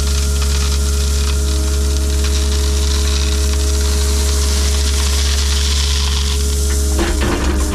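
Engine of a backfilling machine running steadily at a constant speed with a low hum and hiss. A brief clatter comes near the end.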